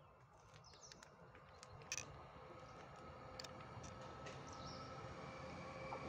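Siemens Class 189 electric locomotive hauling a container train, approaching: a faint rumble with a steady hum that grows louder throughout. A few short sharp high chirps or clicks come over it, the strongest about two seconds in.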